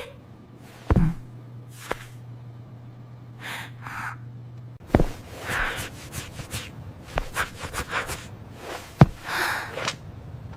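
Breathy gasps and sighs, with a few sharp knocks, over a low hum that stops about five seconds in.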